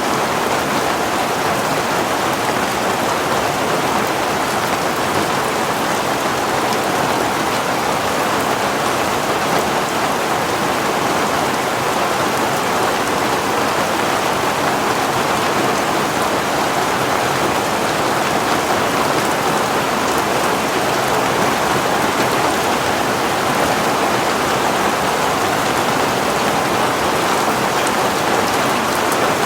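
Heavy rain falling and pattering on surfaces, a steady even hiss that does not change.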